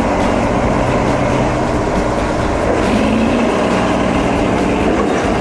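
Truck engines running, a steady, dense wash of engine noise with a low hum.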